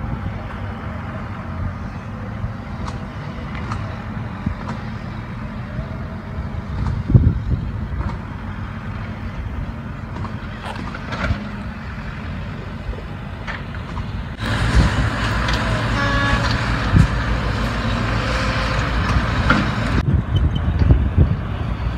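Truck and vehicle engines running steadily at a road construction site, with a few knocks. About two-thirds of the way in the sound abruptly becomes louder and fuller for several seconds.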